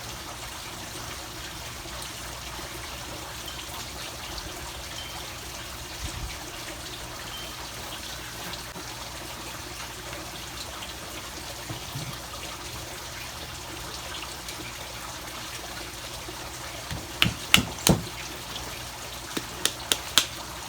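Steady trickle of running water, with a run of sharp clicks and knocks near the end.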